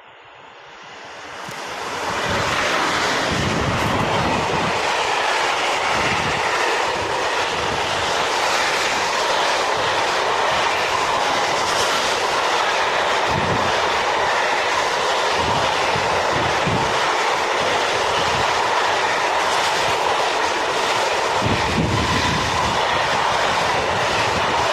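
Freight train of flat wagons hauled by two electric locomotives in multiple, passing close. The noise swells over the first two seconds as the locomotives arrive, then holds as a steady loud roll of steel wheels on rail, with irregular low thuds of wheelsets over rail joints.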